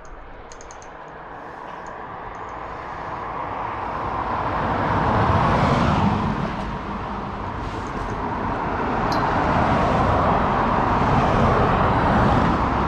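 Road traffic on the B1248 passing by: the noise of one vehicle swells up to a peak about halfway through and fades, then another builds up toward the end.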